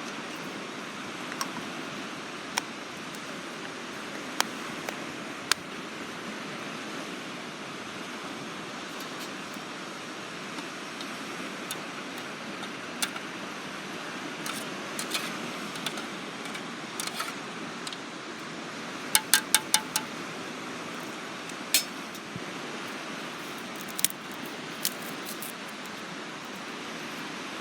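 Steady sea surf and wind noise, with scattered sharp metallic clinks and clicks, including a quick run of five about two-thirds of the way through.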